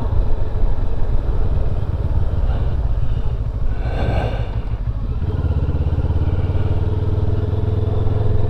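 Benelli TRK 702 motorcycle running on the road at cruising speed, engine and wind noise together. A brief higher-pitched sound comes about four seconds in, and the engine note steadies in the second half.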